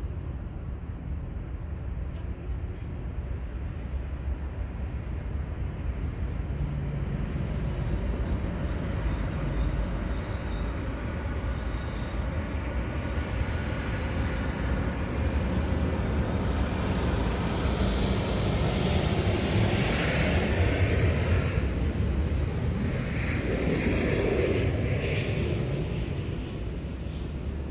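Aircraft passing overhead: a low, steady rumble that slowly grows louder, peaks about two-thirds of the way through, then begins to fade.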